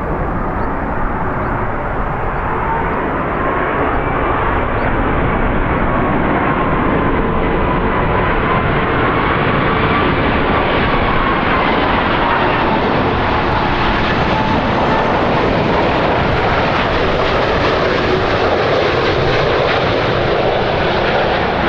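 Jet aircraft engines running loud and steady: a broad rush with a faint whine that wavers gently in pitch.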